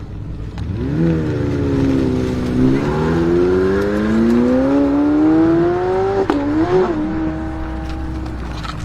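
McLaren 765LT Spider's twin-turbo V8 accelerating hard, its note climbing steadily for about five seconds. About six seconds in, a sharp crack and a drop in pitch mark an upshift, then it pulls again and holds a steadier note.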